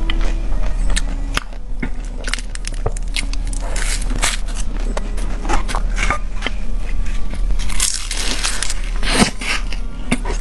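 Close-miked eating: irregular crunching and crackling bites and chewing of crunchy food.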